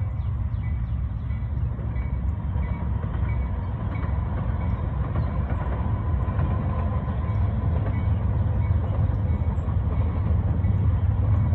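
Double-stack freight train rolling past, a steady heavy rumble of wheels on rails that grows slightly louder toward the end.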